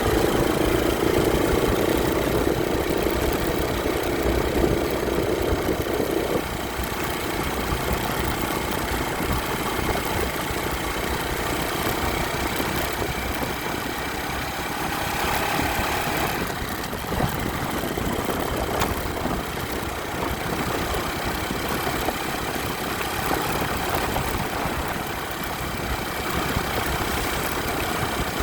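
Motorcycle engine running steadily under a constant hiss of noise, its note dropping and getting a little quieter about six seconds in.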